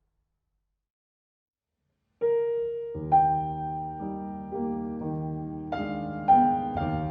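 Silence, then solo piano music begins about two seconds in: a single held note, joined by chords and a bass line a second later, at the start of a new piece.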